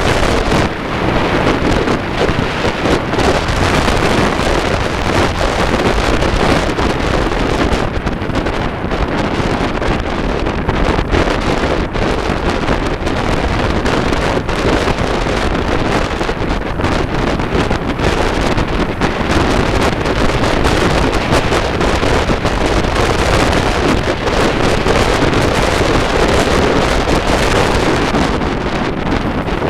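Steady wind buffeting the microphone, with vehicle noise, likely motorcycles, running beneath it.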